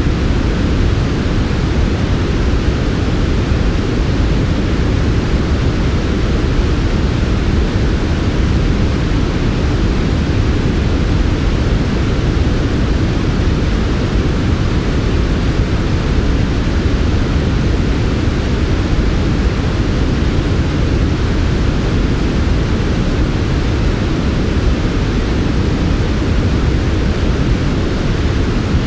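Steady, smooth generated noise of the kind sold as sleep 'white noise', weighted toward the low end, even and unchanging throughout.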